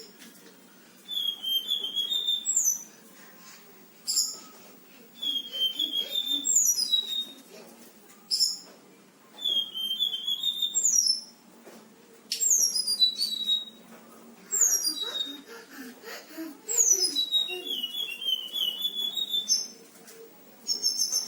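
A selendang biru songbird singing in full song: loud phrases of high whistles, falling slurs and rapid trills, one every couple of seconds with short pauses between. The song is filled with mimicked calls of other birds.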